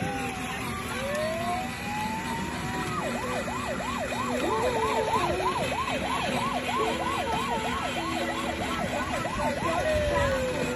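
Electronic fire-engine siren of a kids' ride-on fire truck toy: a slow rising wail, then a fast yelp from about three seconds in, about three cycles a second for around six seconds, then a falling wail near the end.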